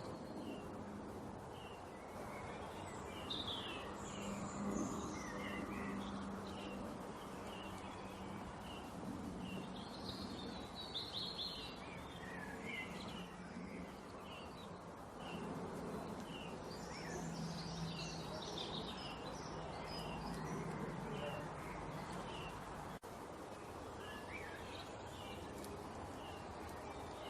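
Small birds chirping, with short high chirps and twitters coming on and off throughout, over a steady background hiss and a faint low hum.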